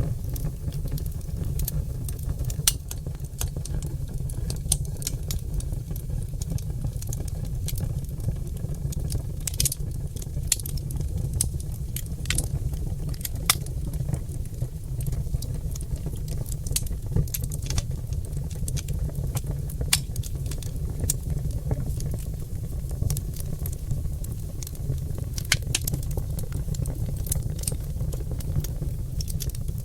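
Oak log fire crackling and popping: irregular sharp pops and ticks over a steady low rumble.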